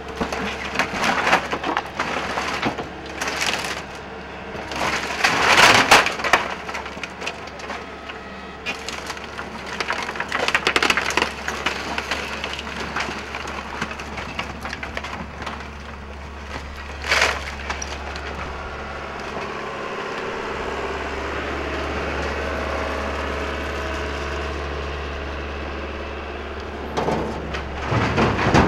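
Excavator crushing and breaking up the wooden debris of a demolished house: irregular splintering, cracking and crunching of timber, with a sharp crack partway through, over the machine's steady low engine hum.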